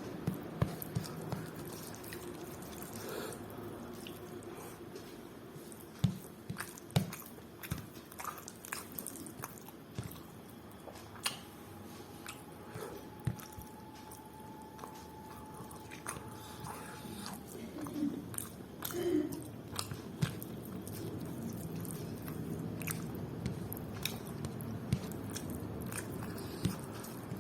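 Close-up mouth sounds of chewing and biting food, with many short, sharp clicks scattered throughout over a low steady background hum.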